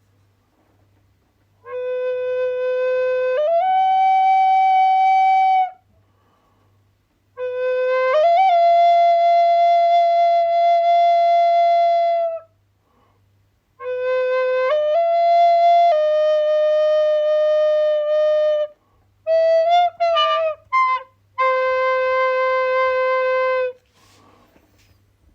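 A flute-like wind instrument playing long held notes in slow phrases, each rising a step soon after it starts, with a cluster of short notes before the last held tone.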